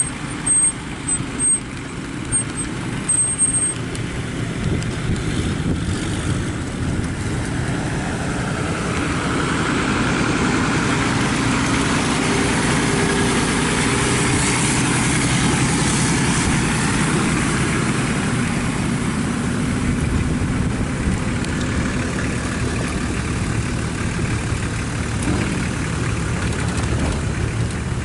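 Motor vehicle engine running with road and wind noise, steady and growing somewhat fuller about ten seconds in. A few short loud knocks come in the first few seconds.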